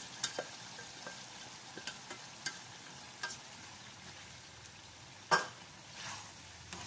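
Salted tiny shrimp (alamang) sizzling in hot oil in a metal wok as a wooden spatula stirs them into sautéed tomato and onion, with scattered clicks of the spatula on the pan and one louder knock about five seconds in.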